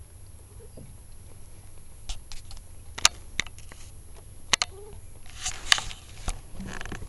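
Kittens moving about, their paws and claws tapping and scratching in scattered light clicks, with a brief rustle about five and a half seconds in.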